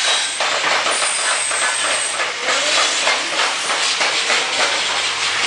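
Electric arc welding: a steady crackling hiss from the arc, dense with small pops.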